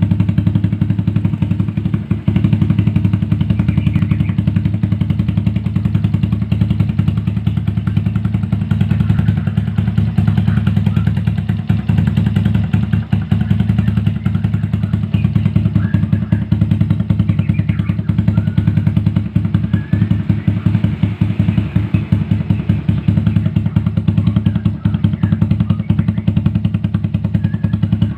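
Yamaha Jupiter underbone motorcycle's four-stroke engine idling in neutral through an aftermarket Kou full-blue exhaust, a steady, fast, even exhaust beat.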